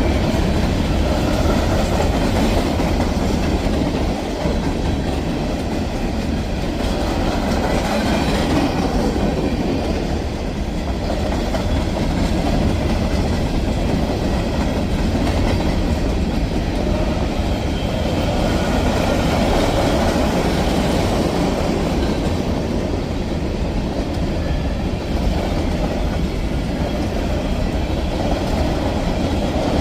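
Freight cars of a CSX grain train rolling past: a steady, loud rolling noise of steel wheels on rail that carries on without a break.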